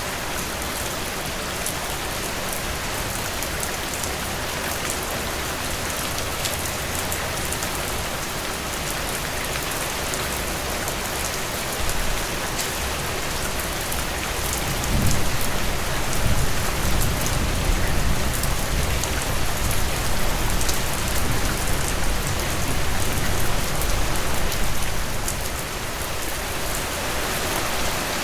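Heavy rain pouring steadily in a dense, even hiss. From about halfway through, a low rumble swells underneath for roughly ten seconds, then fades.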